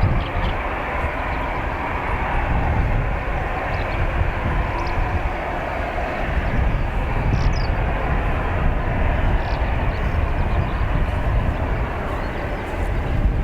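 Steady, even rumble of aircraft engines across the airfield, mixed with low wind noise on the microphone, with a few faint chirps above it.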